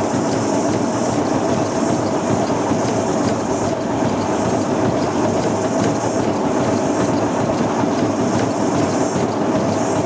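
Old top-loading washing machine spinning a heavy, deliberately unbalanced load, its noisy bearings making a steady mechanical rumble. A hiss in the high end swells and fades at an even, rhythmic pace.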